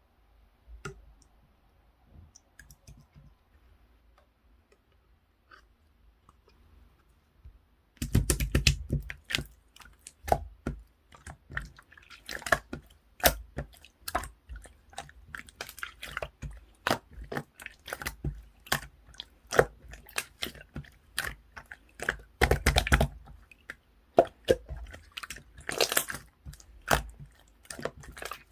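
Pearl slime being squished, stretched and pressed by hand, making dense, irregular wet clicks and pops. Only faint handling sounds at first; the clicking turns loud about eight seconds in.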